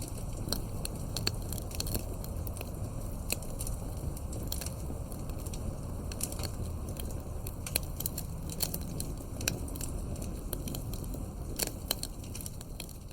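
Wood fire crackling: irregular sharp pops and snaps of burning logs over a steady low rumble of flames.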